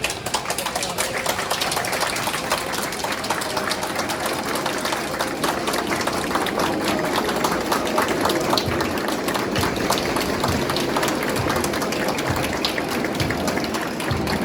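Crowd applauding: dense, steady clapping that starts suddenly and keeps going.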